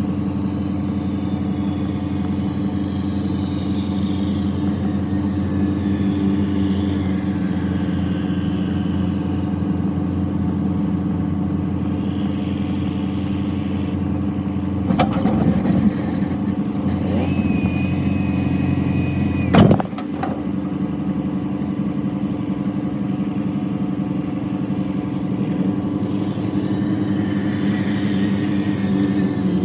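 A vehicle engine running steadily at a constant speed. About halfway through there is a short rattling stretch, then a thin high tone held for a couple of seconds that ends in a single sharp knock.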